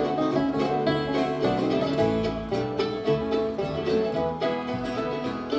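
Bluegrass band playing an instrumental break between verses, with banjo picking over guitar.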